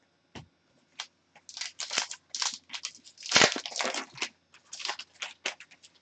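Crinkling and tearing of a hockey card pack wrapper being handled and ripped open, in a run of irregular crackles that is loudest around the middle.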